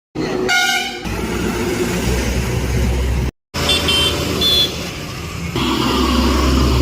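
Truck engine running with a low rumble. A short pitched horn blast sounds about half a second in. The sound drops out briefly just after three seconds, then the engine goes on with a brief high-pitched tone about a second later.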